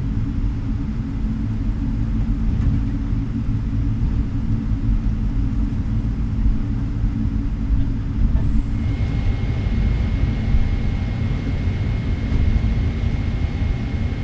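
Steady low rumble of a Boeing 777-300ER heard inside its cabin. About nine seconds in, a radio hiss with a steady high tone comes in.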